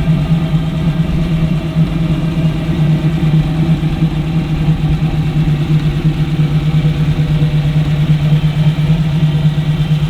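An engine running steadily at idle, with an even, unchanging low hum.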